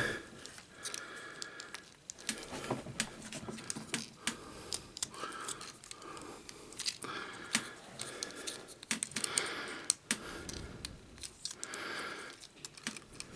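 Plastic parts of a Transformers action figure being handled and pressed into place: irregular small clicks and snaps with light rattling, as the toy is folded into its Jeep vehicle mode.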